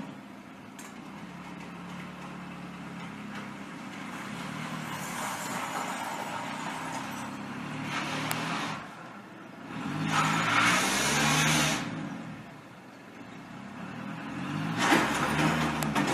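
Car engine and road noise: a steady low engine hum, with three loud swells of tyre-and-wind hiss, in the middle and near the end.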